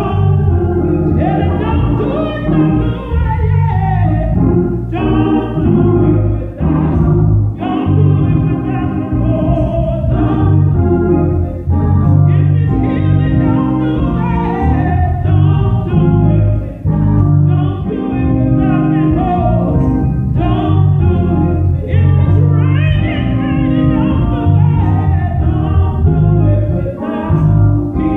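Gospel music: singing over organ and a steady bass.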